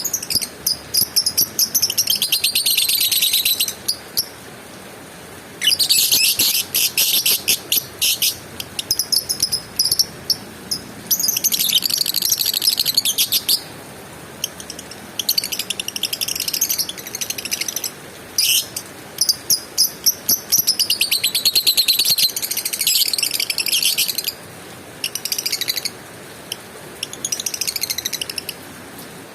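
Lovebird chattering in repeated bouts of rapid, high-pitched trilling, each a few seconds long, with short pauses between them.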